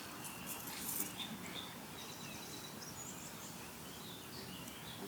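Outdoor ambience: a steady background hiss with faint, scattered short bird chirps and a few brief clicks about a second in.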